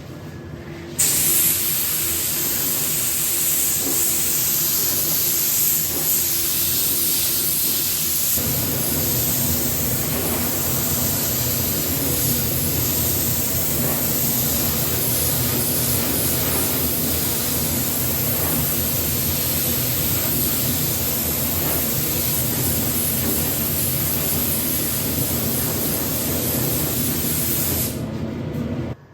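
Paint spray gun spraying 2K acrylic paint with a steady hiss, starting about a second in after a short break and cutting off just before the end; the hiss grows fuller and deeper from about eight seconds in.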